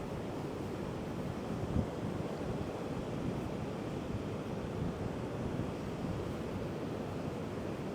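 Heavy ocean surf breaking and washing on the beach, mixed with strong wind buffeting the microphone as a low, steady rumble.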